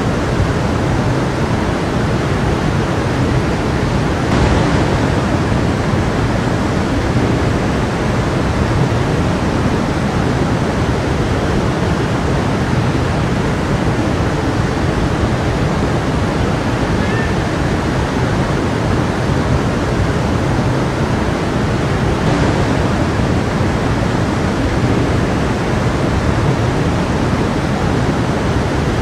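Stream of water flowing and babbling over rocks in a steady, continuous rush.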